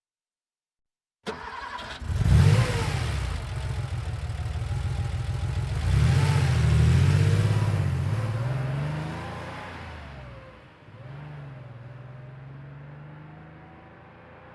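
A 1990 Porsche 911's air-cooled flat-six cranks and fires with a sharp flare, then idles briefly. It then revs and pulls away at medium speed, heard from behind, and fades steadily as the car draws away.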